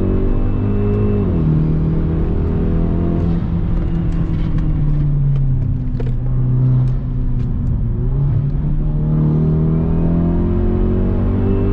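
A 2017 Hyundai Veloster Turbo's 1.6-litre turbocharged four-cylinder, with a straight-piped intake, pulling hard under acceleration. The revs climb, drop sharply at an upshift just over a second in, then climb again, hold for a few seconds, and rise once more near the end.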